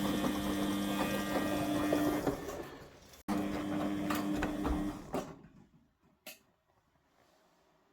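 Front-loading washing machine's motor, belt and drum running with a steady hum and mechanical rattle. It winds down about two seconds in, cuts out abruptly, then runs again briefly and stops about five seconds in. Near silence follows, with a single click about six seconds in.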